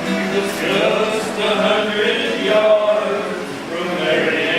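A group of men singing together, holding wordless, chant-like notes at the close of a western song.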